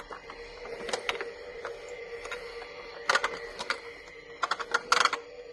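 LeapFrog Pick Up and Count toy vacuum running, with a steady electronic hum and bursts of plastic clicking and rattling. The clicks come in clusters about a second in, around three seconds in, and just before the end.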